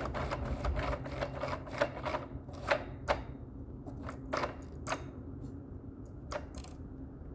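Irregular clicks, taps and light scraping of a screwdriver and plastic and metal parts being worked while an old light bar is taken apart, a stubborn screw being loosened. A faint steady low hum lies underneath.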